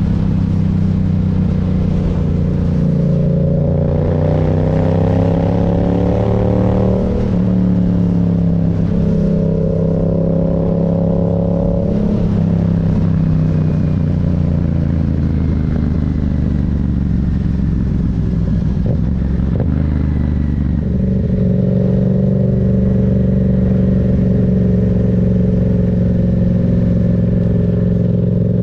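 Yamaha MT-07's parallel-twin engine on the move: the revs rise a few seconds in and step down with a gear change, then it eases off and runs rougher through the middle, before settling at steady revs near the end.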